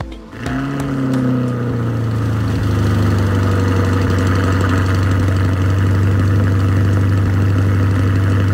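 A 2020 Chevrolet Corvette Stingray's 6.2-liter V8 starting up. It catches about half a second in, flares briefly, then settles into a loud, steady idle.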